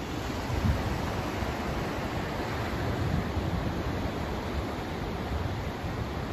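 Continuous hiss of a sleep-aid noise track, heavier in the low end than pure white noise, with an uneven low rumble that rises and falls underneath.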